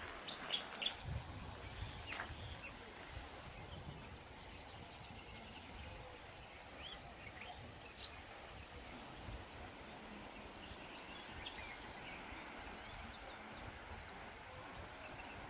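Small birds chirping, with short high calls scattered over a faint steady background hiss. There are a few low bumps in the first couple of seconds.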